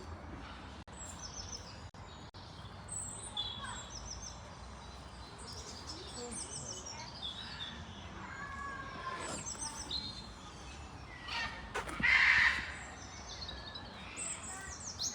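Several birds chirping and calling, with short repeated high chirps throughout and one louder call about twelve seconds in.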